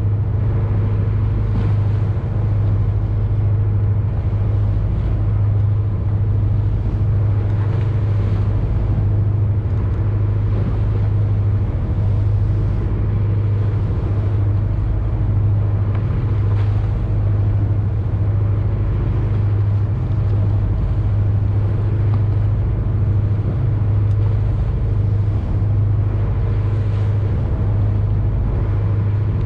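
Boat engine running steadily under way, with a strong, unchanging low hum and a wash of noise over it.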